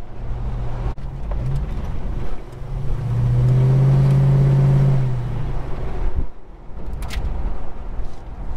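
Holden HK's engine and exhaust heard from inside the cabin while driving, swelling into a steady, louder drone from about three to five seconds in, then easing back.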